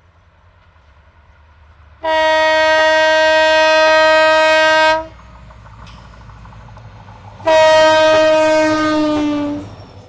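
Locomotive horn on an Indian Railways express train: two long blasts, the first about three seconds, the second about two seconds and dropping slightly in pitch as it fades. A low rumble of the running train lies underneath.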